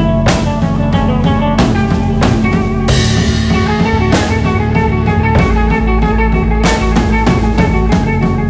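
Instrumental rock jam in A major: electric guitars playing over a drum kit with steady cymbal and snare hits and a bass line.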